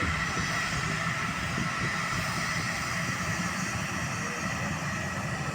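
Jet airliner engines running steadily, a continuous rush with a faint whine.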